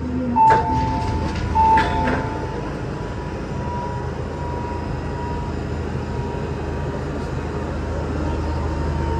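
Inside an MTR Island Line M-Train carriage: two loud electronic beeps about a second apart, then a steady hum from the train with a faint high tone held over it.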